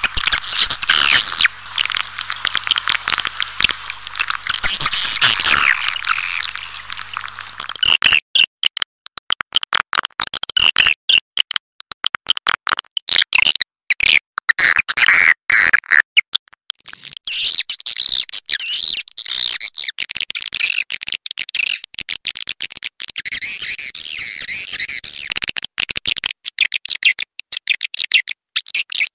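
Recorded swiftlet calls used as a swiftlet-farming lure (call sound): rapid high chirping and twittering of many birds. It thins out after about 8 seconds to scattered chirps and sharp clicks, then turns dense again from about 17 seconds in.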